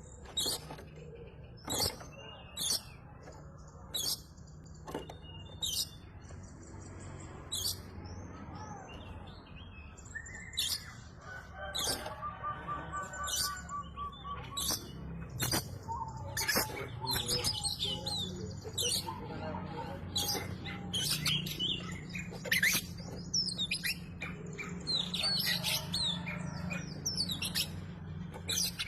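Oriental magpie-robin (kacer) in full song: sharp single chirps a second or two apart at first, then a busier run of varied whistles and chirps from about halfway.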